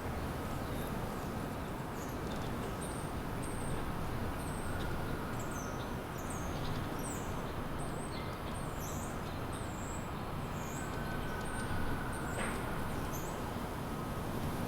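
Small birds chirping, a quick scatter of short, very high, thin calls in the middle stretch, over a steady low rumble of distant city traffic.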